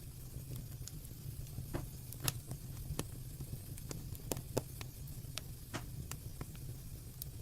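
Fire burning with a steady low rumble and irregular sharp crackles and pops, a few louder snaps in the middle.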